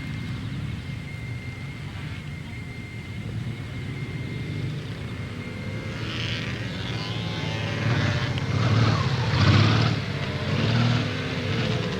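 Sport motorcycle engines running around a practice course, revving up and down in pitch as bikes pass; the passes grow louder from about halfway, peaking about eight to eleven seconds in.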